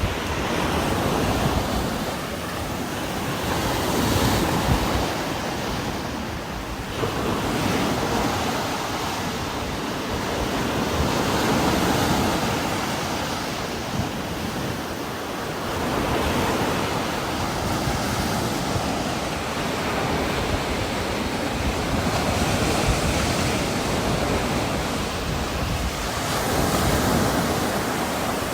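Heavy rain with strong wind, a dense rushing noise that swells and eases every few seconds as the gusts come and go.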